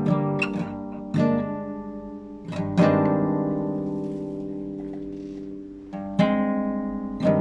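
Classical guitar played solo in a slow improvised passage: a few plucked notes and chords, each left to ring and die away for a second or more before the next.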